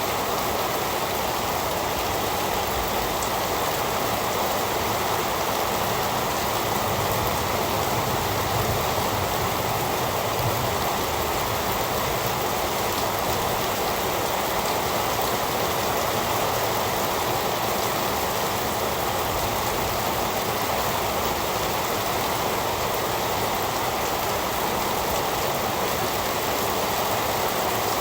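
Heavy rain falling in a steady, unbroken wash.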